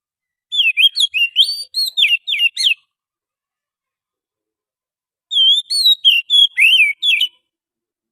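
Oriental magpie-robin (kacer) singing: two short phrases of rapid, varied whistled notes, each about two seconds long, with a pause of about two and a half seconds between them. This is a wild-bird recording played as a lure call.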